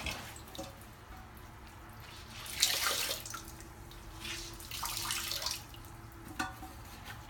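Towel wiping leftover water out of the bottom of an emptied toilet tank: splashing and rubbing in several short bursts, the loudest about two and a half seconds in.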